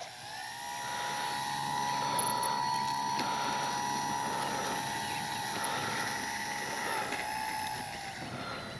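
Brushless electric motor and propeller of an E-flite Sportix RC plane running on a 4S LiPo, a steady high whine. Near the end the whine drops in pitch and fades away.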